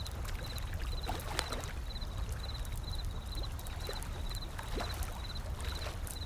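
Wood fire crackling with many small sharp pops, over ocean waves rolling in as a steady low rumble and wash. A high chirp repeats about twice a second throughout.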